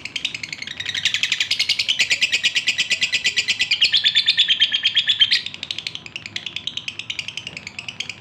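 Male lovebird in breeding condition chattering: a fast, unbroken run of high chirps, the song of a male calling to a female. It is louder for the first five seconds or so, then quieter.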